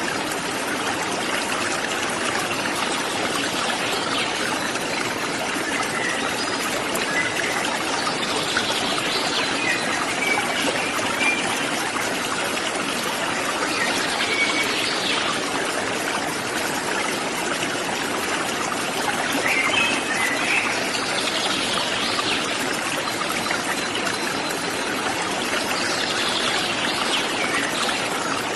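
Steady rush and splash of running water from a forest stream or small waterfall, with short, high bird calls now and then over it.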